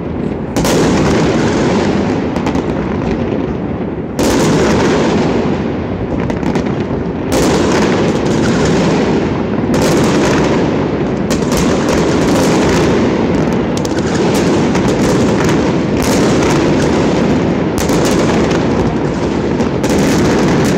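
Aerial fireworks bursting in a loud, continuous barrage, with a sharp new burst every few seconds.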